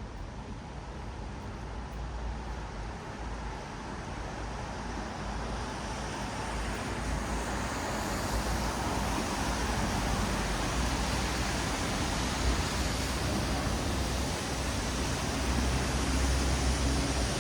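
Traffic on a wet city road: a steady hiss of tyres on wet asphalt over a low rumble of engines, growing louder as a vehicle approaches.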